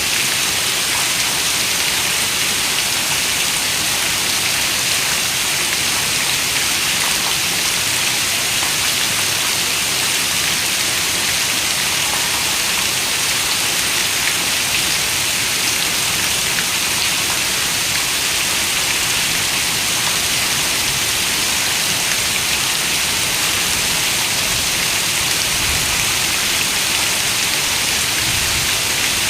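Rain falling steadily on a window: a constant, even hiss, bright rather than deep, with no breaks or swells.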